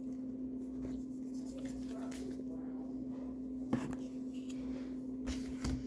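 Kinetic sand being scraped and pressed into a plastic mold, with a couple of sharper clicks of the plastic near the middle and near the end, over a steady low hum.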